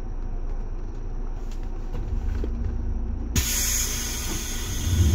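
Running noise of a Seibu 2000 series electric train heard on board: a steady low rumble that grows louder about two seconds in, then a sudden loud rushing hiss about three and a half seconds in.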